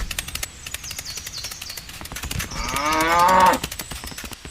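A cow mooing once, a call of about a second that falls slightly in pitch near its end, over a steady fast clicking.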